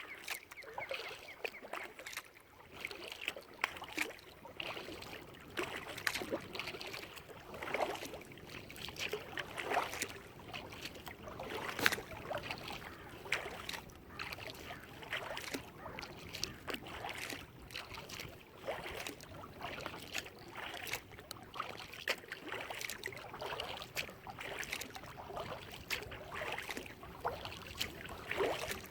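Kayak paddling: the paddle blades dip and splash in the water, with dripping and small irregular splashes.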